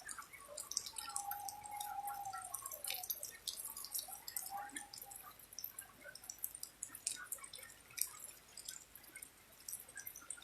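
Raindrops dripping and tapping in an irregular patter, with a faint held tone about a second in.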